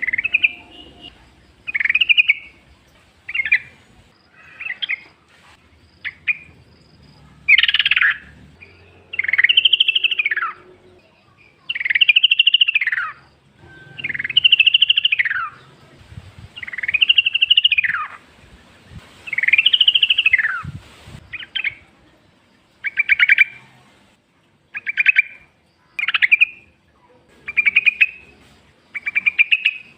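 Yellow-vented bulbul calling over and over: short notes at first, then, from about a quarter of the way in to about two-thirds through, longer notes that rise and fall, about two seconds apart, then short notes again about once a second.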